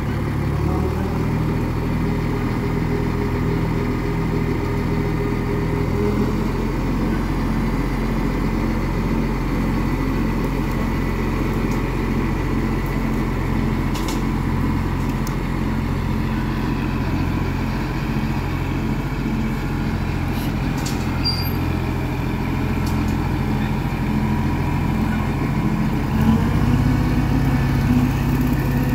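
Kubota B2501 tractor's three-cylinder diesel engine running steadily. Its pitch shifts about six seconds in, and it gets a little louder near the end.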